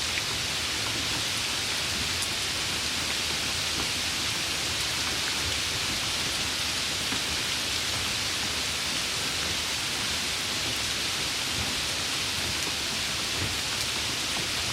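Steady rain, an even hiss of falling drops with a few faint separate drop clicks.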